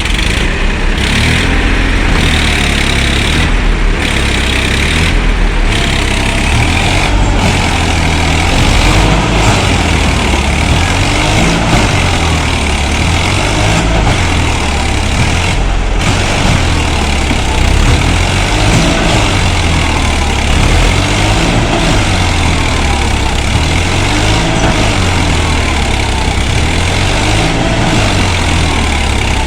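Diesel engines of heavy earthmoving machines, backhoe loaders and tractors, running under working load. The engine note rises and falls in a repeating cycle about every two and a half seconds.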